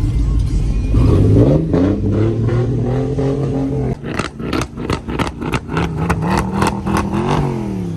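A vehicle engine revving up and held at high revs for a few seconds, then dropping back about halfway through with a quick run of sharp cracks, and revving again near the end.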